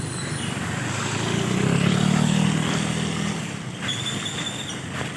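A motor vehicle passing close by, its engine hum swelling to a peak about two seconds in and then fading, over a steady rush of background noise.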